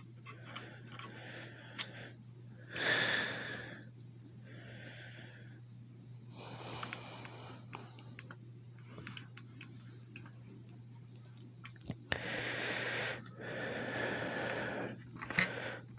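A person breathing heavily near the microphone, a few loud breaths lasting about a second each, with scattered light clicks from handling a plastic diecast model truck, over a steady low hum.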